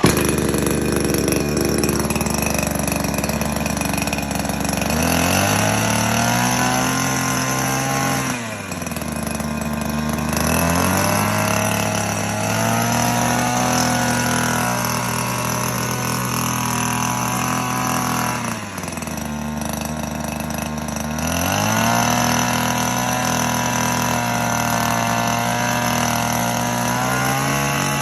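Engine-powered hedge trimmer running, revved up three times and dropped back to idle in between.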